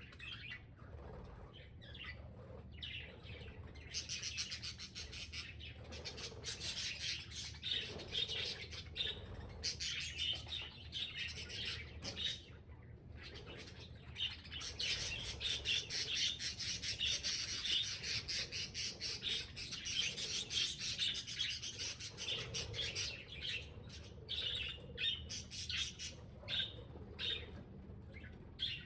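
Budgerigars chattering and chirping: a dense, continuous stream of rapid, high chirps and squawks. It thins briefly about twelve seconds in, then comes back busier.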